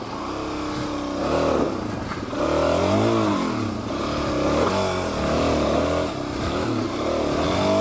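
Suzuki DR-Z400 single-cylinder four-stroke dirt bike engine revved up and down again and again, with about four rising-and-falling swells over a steady low drone, as it works for traction on a muddy climb.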